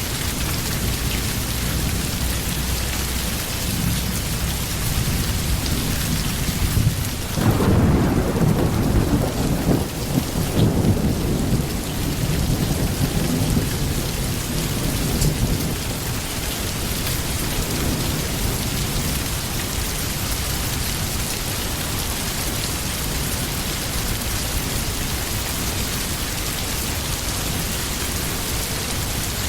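Steady rain, with a roll of thunder that breaks in suddenly about a quarter of the way through, rumbles for several seconds and fades away.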